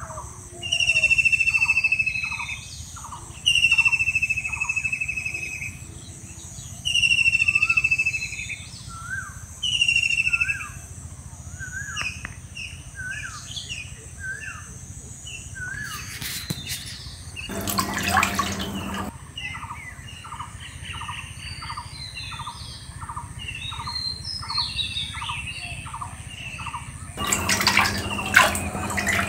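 Wild birds calling. One repeats a loud, drawn-out, slightly falling whistle every two to three seconds over a fast run of short chirps, then goes quiet about ten seconds in, leaving softer mixed chirping. Two bursts of noise, each about a second and a half long, come near the middle and near the end.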